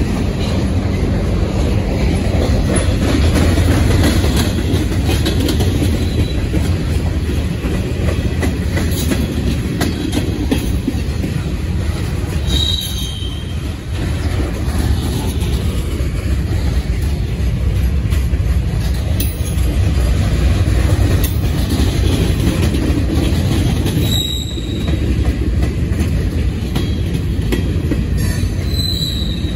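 Freight cars of a passing freight train rolling by close to the track: a steady low rumble of steel wheels on rail. Three brief high-pitched wheel squeals come through, about halfway and twice near the end.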